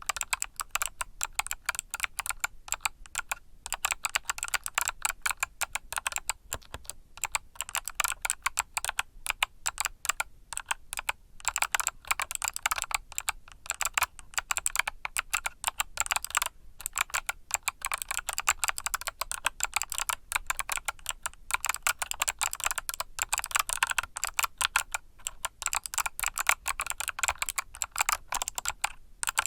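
Typing on a mechanical keyboard with Kailh Box Summer switches: a dense, fast run of key clicks, broken by a few short pauses.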